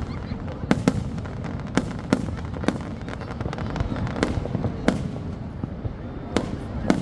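Aerial fireworks bursting: sharp, irregularly spaced bangs, about nine of them, some close together in pairs, over a steady low rumble.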